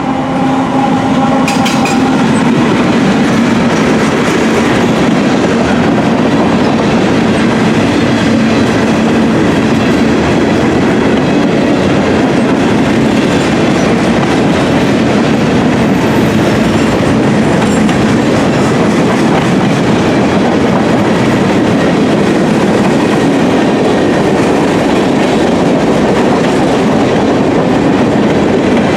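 Gondola cars of a freight train rolling past at track speed: a steady, loud rumble of steel wheels on rail with clickety-clack over the rail joints. A steady tone dies away in the first two seconds.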